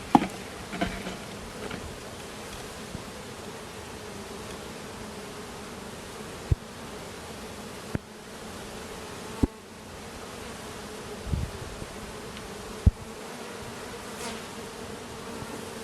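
Honeybee colony humming steadily around an opened hive, with a few short knocks scattered through.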